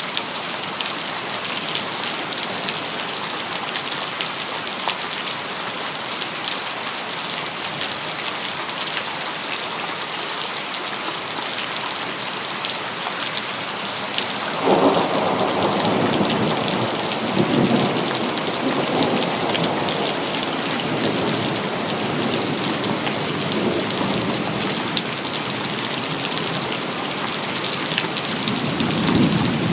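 Steady rain pattering down, then a clap of thunder about halfway through that rolls on as a low rumble for the rest of the time, swelling again a few seconds later and once more near the end.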